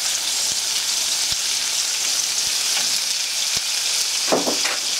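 Butter and oil sizzling in two frying pans, apple slices in one and pieces of carp in the other: a steady high hiss with scattered small ticks and pops.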